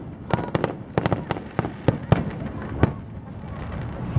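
Fireworks display: a rapid series of sharp cracks and bangs from exploding aerial shells, several a second, which thin out about three seconds in.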